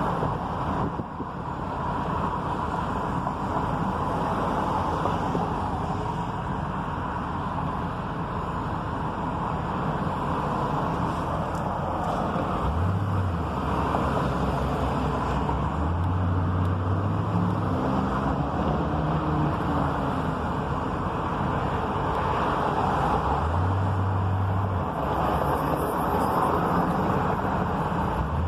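Steady rumble of road traffic with wind on the microphone, and a low hum that comes and goes three times.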